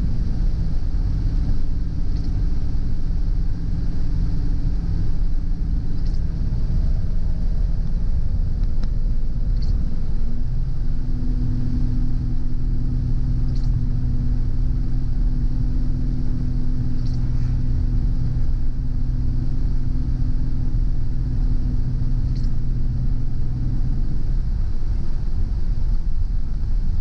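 A car driving: steady road rumble and engine hum. The engine's pitch drops and settles on a new steady note about ten seconds in.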